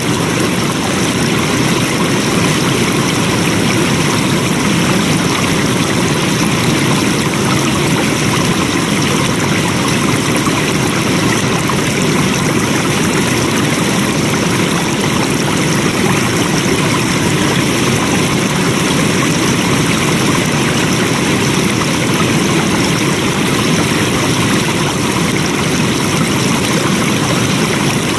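Flowing water rushing steadily, an even, unbroken wash of sound with no splashes or changes.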